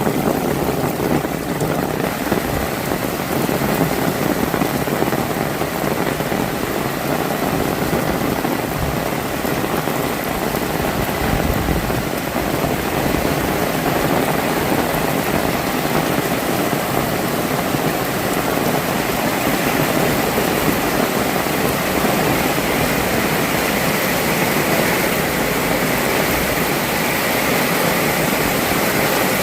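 Heavy rain falling steadily, a dense, even hiss of rainfall.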